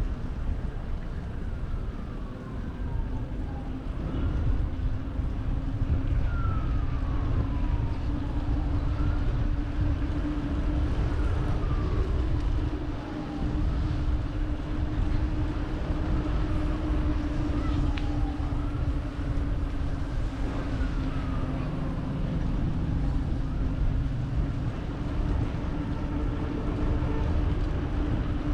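Wind and road rumble on the microphone of a moving bicycle, with a steady hum underneath. Over it a faint siren wails up and down every two to three seconds.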